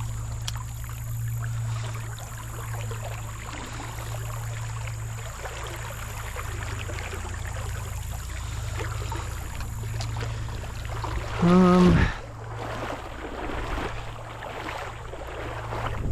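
Legs wading through a shallow creek, water sloshing and swishing steadily with each step. About eleven and a half seconds in comes a short, loud, pitched sound lasting about half a second.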